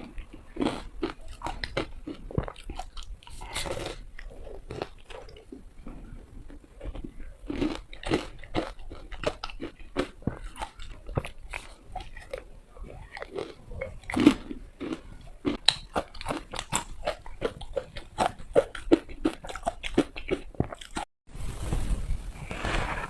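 Ice being bitten and chewed close to the microphone: rapid, irregular crunching cracks, several a second. There is a short break a couple of seconds before the end.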